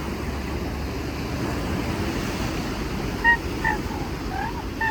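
Steady sea-surf and wind noise on the microphone. About three seconds in, a dog starts giving short, high whines, four in quick succession.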